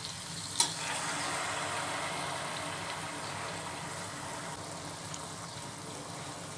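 Onion, tomato and green chili frying in oil, with a raw egg slid into the hot pan from a bowl; the sizzle swells about a second in as the egg lands, then eases. A single sharp click comes just before.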